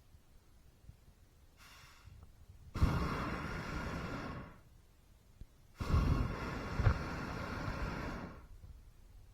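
Two blasts of a hot air balloon's propane burner, each a sudden, loud rush of flame noise. The first lasts under two seconds, the second about two and a half seconds, starting about a second after the first stops.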